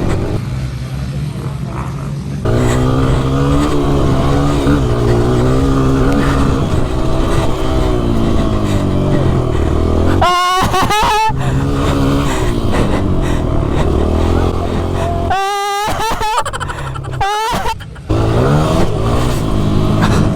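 Motocross bike engine running under load, its pitch rising and falling with the throttle; twice, about ten and fifteen seconds in, it revs sharply up in pitch. A steady low rumble of wind on the microphone runs underneath.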